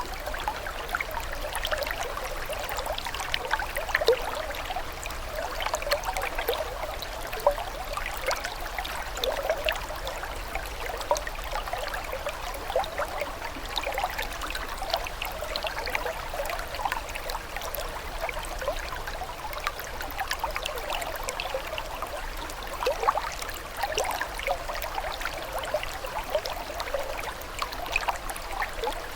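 Water trickling and burbling steadily, with many small splashes and bubbling plinks, as of a small stream running over stones.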